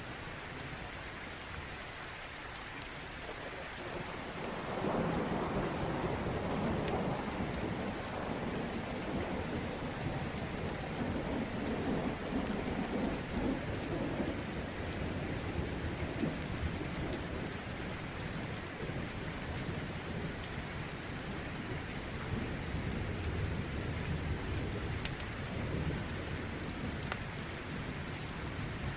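Steady heavy rain with a long roll of thunder that swells in about five seconds in and slowly rumbles away over the next twenty seconds.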